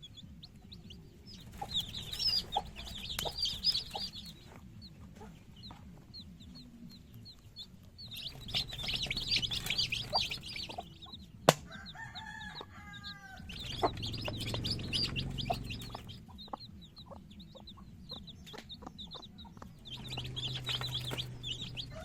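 Chickens calling, with four spells of dense, high chirping. About halfway there is a sharp click, then a drawn-out call of a couple of seconds.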